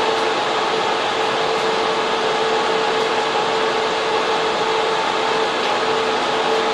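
Steady rushing noise of server and air-cooling fans in a data center server room, with two steady tones running through it.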